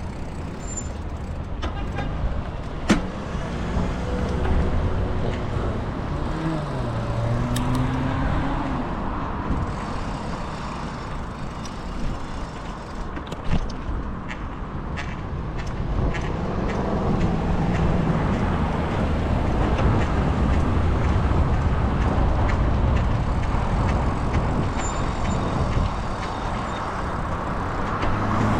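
Street traffic: cars passing and pulling away, their engine pitch rising and falling, over a steady road rumble, with a sharp click about three seconds in.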